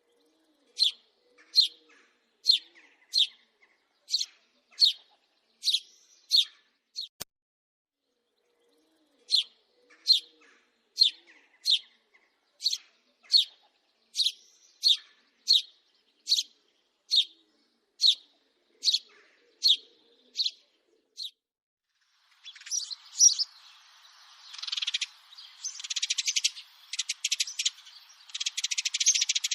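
House sparrow chirping: single short chirps, roughly one a second, with a pause of about two seconds a quarter of the way in. About three quarters of the way through it changes to a dense, rapid chattering.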